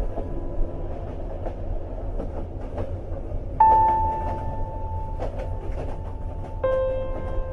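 Train running on rails: a steady low rumble with irregular clicking and clatter from the wheels on the track. Two sustained piano notes come in, one about halfway through and another near the end.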